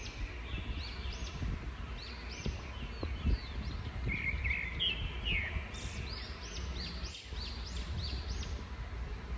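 Small birds chirping in quick, repeated arched calls, one bunch about two seconds in and a busier run from about six seconds, over a steady low background rumble.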